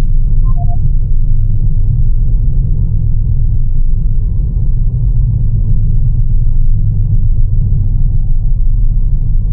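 Steady low road rumble inside the cabin of a Lancia Ypsilon on the move, with no rise or fall in pitch.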